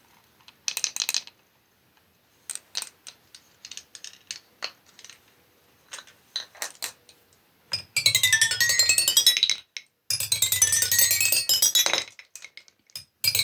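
Marbles clinking, first a few scattered knocks, then marbles rolling across toy xylophone bars, ringing out fast runs of notes that sweep down in pitch and back up. Two such runs come in the second half, and a third starts near the end.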